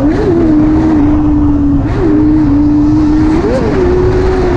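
Motorcycle engine running at a steady pitch with three brief throttle blips that rise and drop back, under heavy wind rumble on the microphone.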